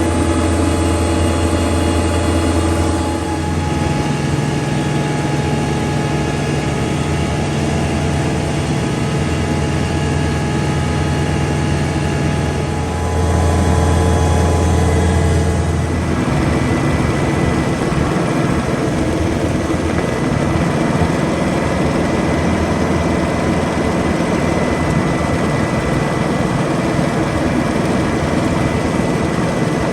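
Tractor engine running loud and steady while driving a PTO-driven snowblower through deep snow. The engine note shifts with the load about three seconds in, and again about thirteen and sixteen seconds in.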